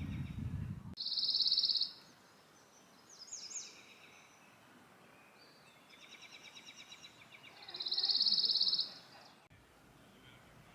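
Wild songbirds singing: a fast, buzzy trill comes twice, about a second in and again near the end, with other chirps and short phrases between. A low wind rumble on the microphone fills the first second.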